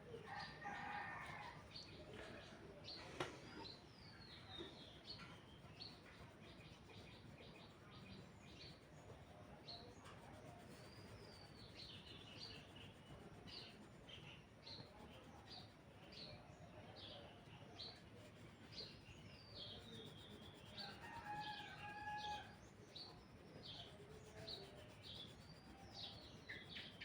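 Faint bird chirps, many short calls repeating throughout, with a single sharp click about three seconds in.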